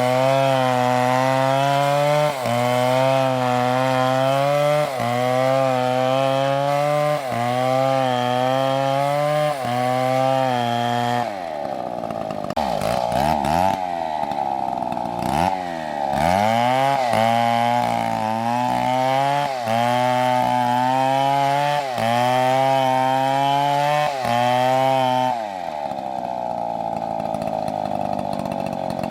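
Two-stroke chainsaw cutting into a tree at high revs, its pitch sagging briefly about every two seconds as the chain bites. Twice it drops to lower, wavering revs for a few seconds before revving back up.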